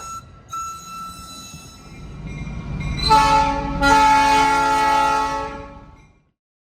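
Diesel locomotive air horn sounding a chord of several notes: a fainter blast first, then two loud blasts about three seconds in, the second one longer. It fades and cuts off to silence about six seconds in.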